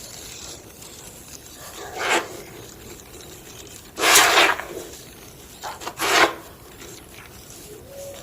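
Homemade gym chalk block crunching and crumbling in several separate gritty crunches, the loudest and longest about four seconds in, with two quick ones close together soon after.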